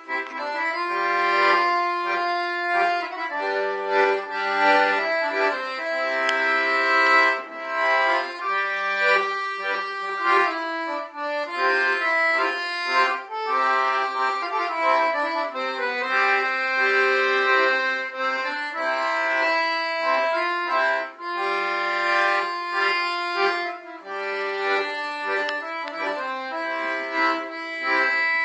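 Solo accordion playing a traditional Portuguese folk tune: a sustained melody with chords, and bass notes that drop in and out.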